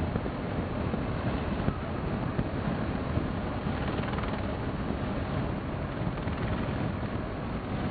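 Steady rush of wind on the microphone over a low, even vehicle engine hum.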